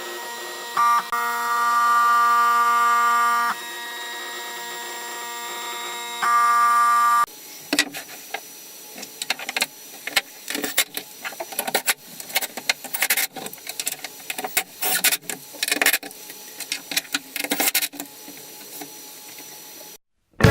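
CNC router's stepper motors whining at steady pitches that jump as the machine changes speed and direction, running a test cut in the air with no wood loaded. About seven seconds in, this gives way to a fast, irregular run of short buzzes and clicks as the machine traces many short moves. The sound stops suddenly near the end.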